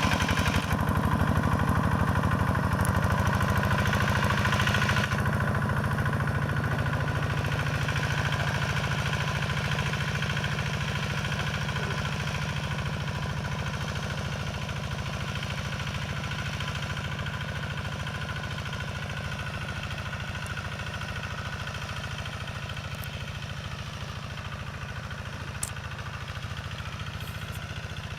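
Single-cylinder diesel engine of a Quick G1000 hand tractor running steadily at a constant throttle, slowly getting quieter.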